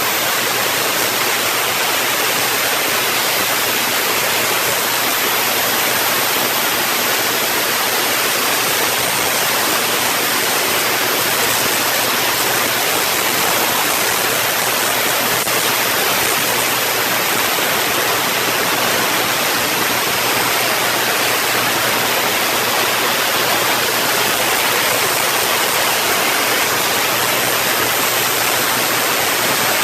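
Artificially generated thunderstorm ambience: a steady, even rain-like hiss with a faint low hum beneath, and no thunder claps.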